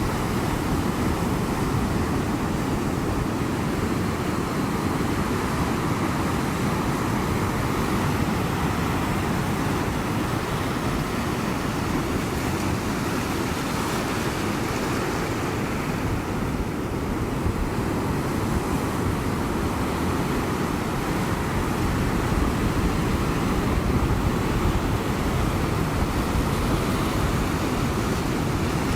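Ocean surf breaking and washing in a steady, continuous low noise, getting a little louder near the end.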